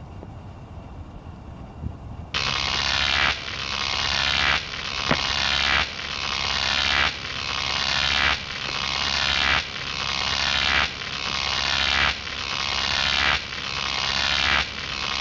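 Broken pinwheel grinding and scraping as it turns, starting about two seconds in and repeating in a steady cycle a little over once a second, each cycle swelling in loudness and then dropping off sharply: the sound of a damaged rotor rubbing as it spins.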